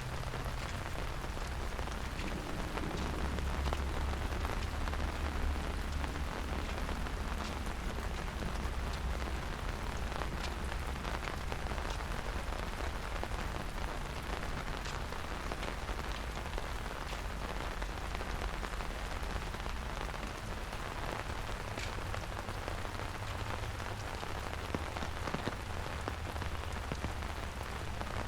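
Steady rain falling, with many separate drop hits ticking through the even hiss and a low rumble underneath that is strongest a few seconds in.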